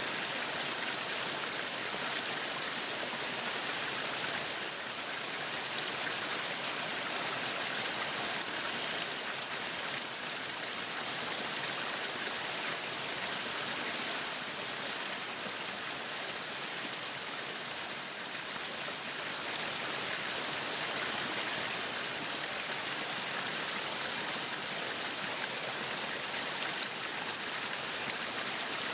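Meat sizzling on a yakiniku grill: a steady, dense crackling hiss that does not let up.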